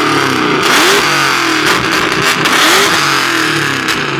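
Car engine being revved in repeated blips, its pitch rising and falling about every two seconds.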